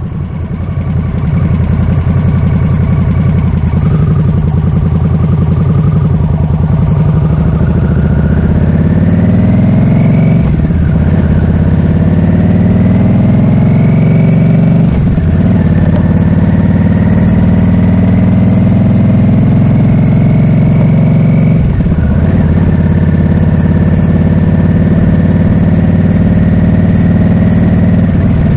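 Harley-Davidson Nightster's V-twin engine under way, pulling through the gears. Its pitch climbs and drops at upshifts about ten and fifteen seconds in, holds steady at cruising speed, and drops again at another shift a little past twenty seconds.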